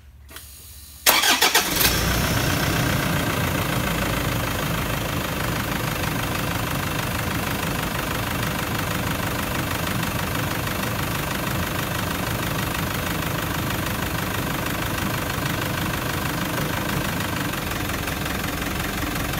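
Toyota Prado 150's engine cranked by its starter and catching about a second in, then idling steadily while the automatic transmission is run through the gears to circulate and warm its fluid for setting the oil level.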